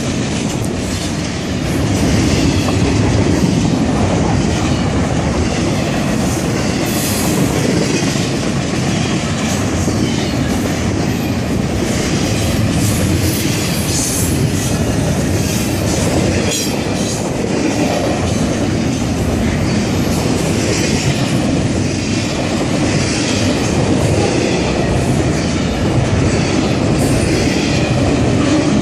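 Double-stack intermodal freight cars rolling past at speed: a steady loud rumble and clatter of steel wheels on rail, with brief high wheel squeals now and then.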